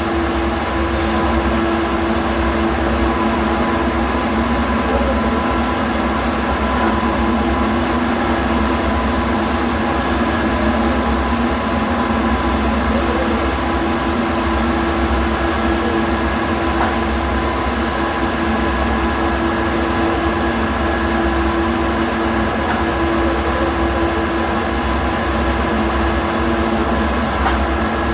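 Steady machinery hum with a constant low tone, unchanging throughout.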